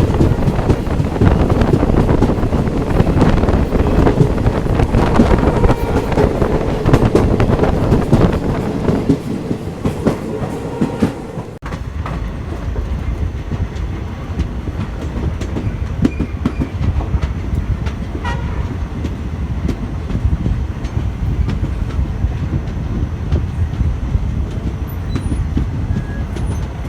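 Passenger train running along the track, heard from on board, its wheels clattering over the rail joints. The sound is louder for about the first twelve seconds, then drops suddenly to a quieter, steadier rumble with scattered clicks.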